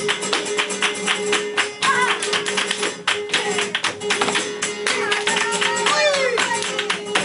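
Flamenco soleá por bulerías: a dense run of rapid, sharp percussive strikes over flamenco guitar, with short sung phrases.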